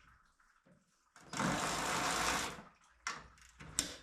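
A power tool buzzes in one run of about a second and a half on a bolt that is tight and will not come free easily, followed by two sharp clicks.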